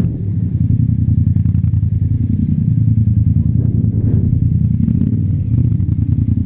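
Yamaha MT-07's 689 cc parallel-twin engine through an Akrapovic exhaust, running at low, steady revs with a deep, pulsing note.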